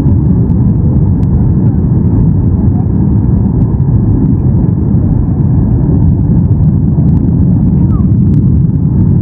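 Cabin noise inside a Boeing 737-800 during the approach: the steady low rumble of its CFM56 engines and the airflow over the fuselage, even and unbroken throughout.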